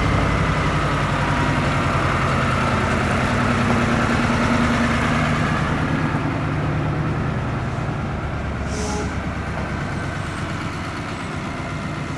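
Heavy truck diesel engine running, growing quieter through the second half, with a brief hiss about nine seconds in.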